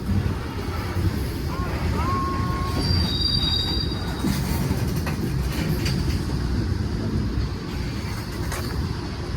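Freight train cars rolling past with a steady low rumble, the wheels giving short high-pitched squeals around two and three seconds in, and a few sharp clacks of wheels over rail joints later on.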